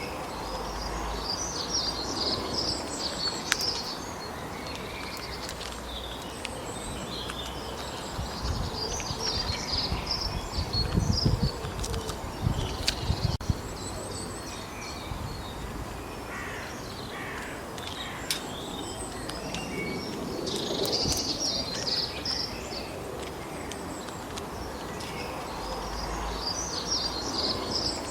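Small songbirds singing in repeated high chirping phrases over a steady rushing background noise, with a few low rumbles about halfway through.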